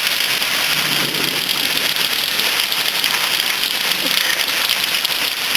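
Heavy rain pouring down steadily: a dense, even wash of drops striking surfaces during a thunderstorm downpour.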